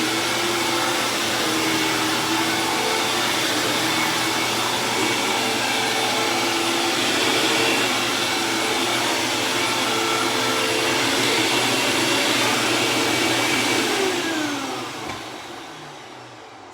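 Hoover WindTunnel Plus upright vacuum cleaner running steadily. It is switched off about 14 seconds in, and the motor winds down with a falling pitch and fades away.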